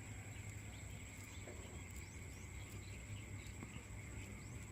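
Steady insect chorus: a continuous high, even tone over a lower buzzing band, with a few short, faint bird chirps and a low rumble underneath.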